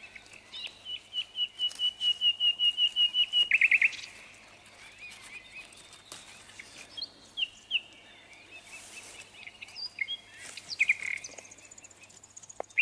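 A songbird singing: a fast run of repeated high notes that grows louder over about three seconds and ends in a few quick, lower, falling notes. Scattered shorter chirps follow in the second half.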